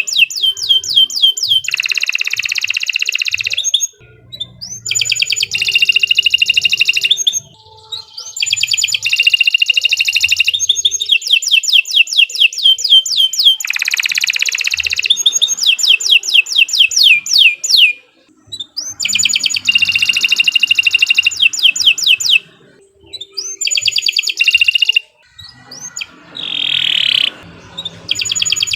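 Domestic canary singing long, fast phrases: runs of rapidly repeated rising notes alternating with dense buzzy rolls, broken by several short pauses.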